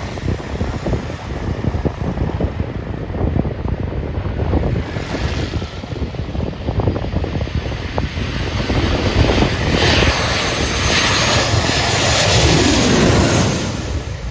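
Airliner's engines growing louder and passing low overhead, loudest over the last few seconds, with the pitch falling as it goes by.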